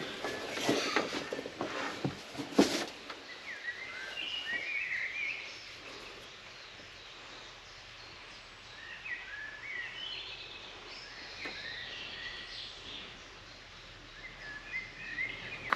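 Small songbirds singing short twittering phrases, three spells of them after the first few seconds. A few footsteps sound at the start.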